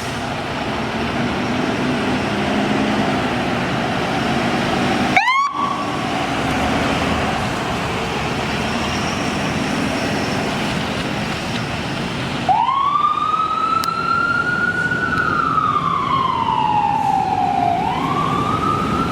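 Fire apparatus responding with its siren wailing over truck and road noise. A short rising whoop comes about five seconds in, and later the wail climbs, holds, slides slowly down and climbs again near the end.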